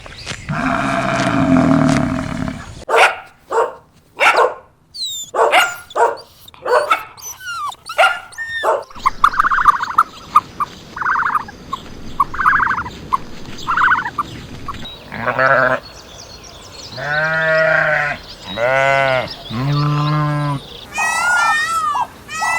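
A string of different animal calls one after another, several short repeated calls in the middle and three long bleats near the end.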